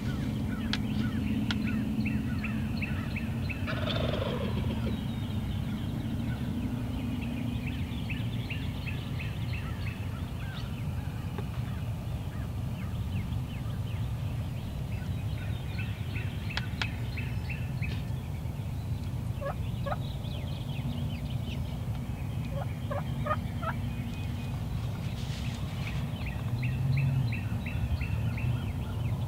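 Wild turkey gobbling repeatedly, rattling gobbles coming every few seconds over a steady low rumble.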